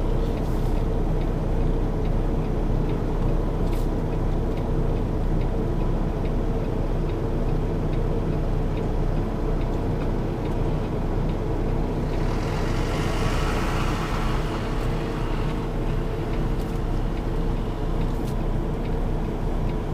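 Semi truck's diesel engine running steadily at low speed while the tractor-trailer is slowly reversed into a dock. About twelve seconds in, a hiss swells and fades over a few seconds.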